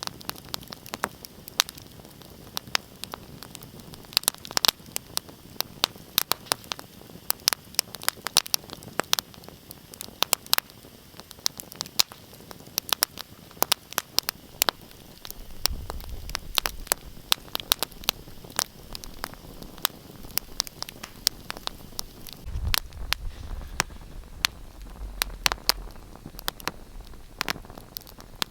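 Wood fire in a fireplace crackling: irregular sharp pops and snaps over a soft steady hiss. A low rumble comes in about halfway through and again a little later.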